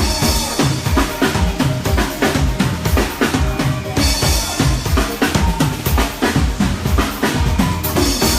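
A band's drum kit playing a steady, driving beat with other instruments under it, during a sound check.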